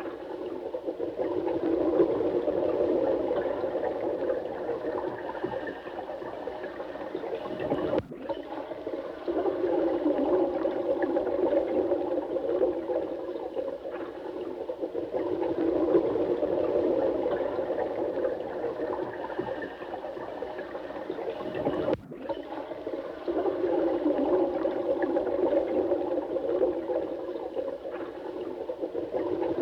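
Running water, a continuous rushing wash centred low in pitch that swells and eases every few seconds. It cuts out briefly about 8 seconds in and again about 22 seconds in.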